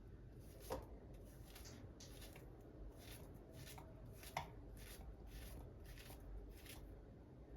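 Faint, quick knife strokes on a cutting board, about two or three a second, with two sharper clicks.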